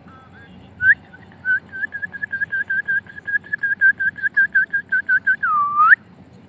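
Whistling: a rapid run of short notes at one pitch, about five a second, then one long swoop that dips and rises again near the end and cuts off suddenly.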